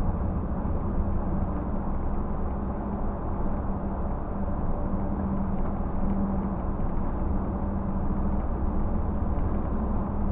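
Scania bus engine and road noise heard from inside the bus as it drives slowly: a steady low drone with a hum that swells a little about five to six seconds in.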